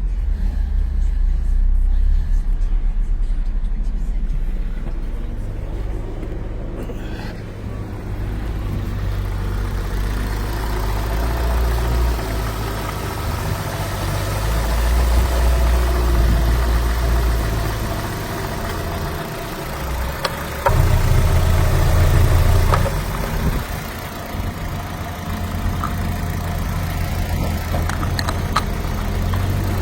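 Opel Astra H's 1.6-litre Z16XER four-cylinder petrol engine running on test, mostly idling, with its level swelling and easing a few times and a louder stretch of about two seconds roughly two-thirds of the way through.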